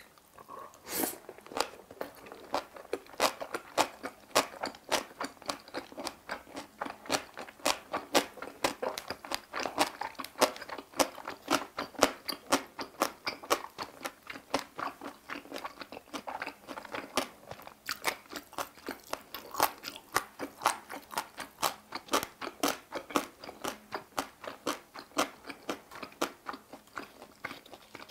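Close-miked chewing of boiled pork belly wrapped in fresh napa cabbage kimchi: wet, crisp crunching that repeats steadily at about three crunches a second.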